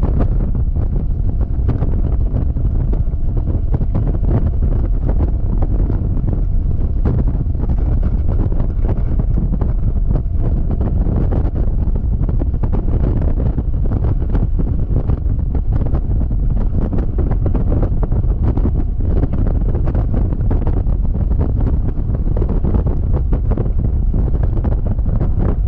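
Wind blasting a GoPro's microphone on a Yamaha XMAX scooter riding at speed: a loud, steady low rumble that buries most other sound.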